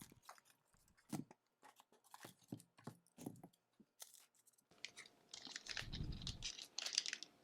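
Hockey card box and its plastic-wrapped packs being handled and opened: scattered small crackles and taps, then denser crinkling and tearing of wrapper from about five seconds in, with a dull thump around six seconds.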